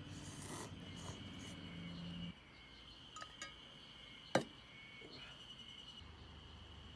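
Background music that stops about two seconds in, leaving a steady high-pitched insect chirring. There are two faint ticks and then one sharp click near the middle.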